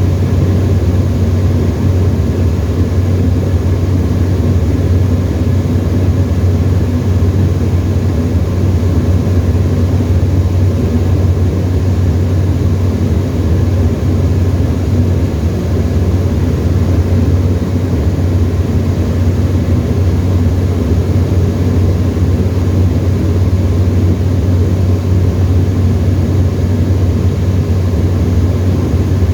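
Tecnam ultralight's piston engine and propeller droning steadily in cruise, heard from inside the cockpit as a loud, unchanging low hum.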